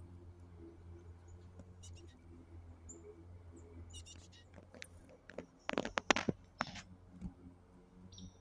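Small birds chirping faintly, with a quick run of loud sharp taps about two-thirds of the way in, over a steady low hum.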